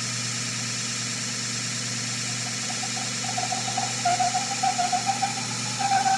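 Fein Grit GX75 belt grinder with GXC centerless attachment running steadily with a constant hum. About three seconds in, a wavering, rasping tone joins and grows louder toward the end as a 1-inch steel pipe passes against the Scotch-Brite belt in a single grinding pass.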